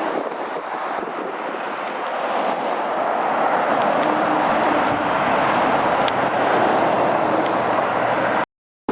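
Dual-carriageway traffic: a steady rush of tyres and engines from passing trucks and cars that swells through the middle with a low engine hum as a vehicle goes by, then cuts off suddenly near the end.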